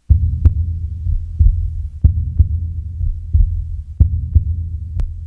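Low, regular thumping in double beats about once a second, like a heartbeat, over a steady low rumble.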